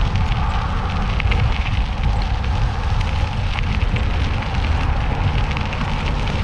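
Wind rumbling on the microphone of a moving mountain bike, with scattered small crackles from the tyres and bike over the trail.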